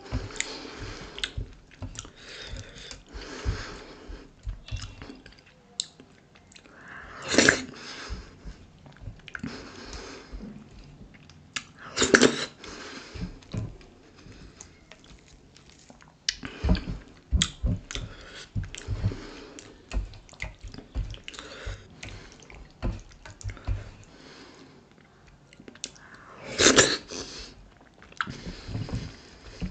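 Close-miked wet chewing and lip smacking of dhido with sisnu nettle curry, full of short sharp mouth clicks, with sticky squelches of a hand kneading the dough through the curry. Three louder, longer wet bursts stand out, about 7, 12 and 27 seconds in.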